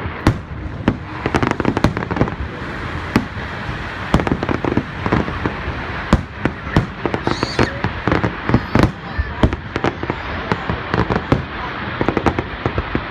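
Fireworks display: a continuous barrage of irregular bangs and cracks from bursting shells, one after another, over a steady rumble.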